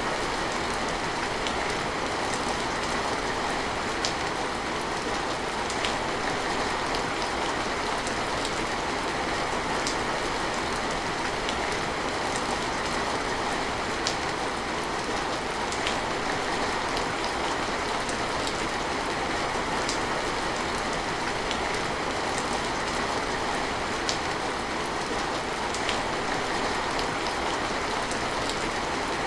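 Steady rain falling, an even patter with occasional distinct drops ticking on a surface.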